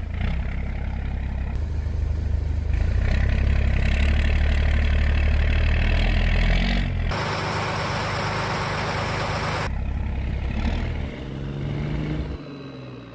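A boat's engine running with a steady low drone that shifts in pitch a few times. For a few seconds in the middle, a loud even rushing noise takes over, then the engine drone returns.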